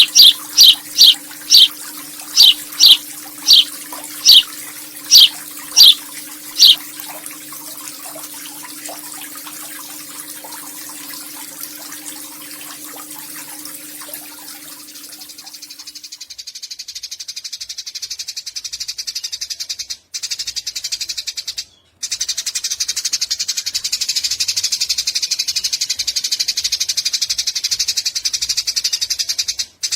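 Eurasian tree sparrow calling: a run of loud, sharp, falling chirps about once a second for the first seven seconds, then from about halfway a long, rapid, high buzzing chatter that grows louder, broken by brief gaps.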